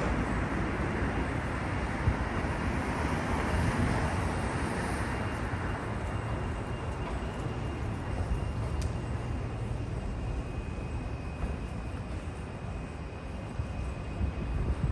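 Docklands Light Railway train running, a steady rumble with a faint thin high whine, slowly growing quieter.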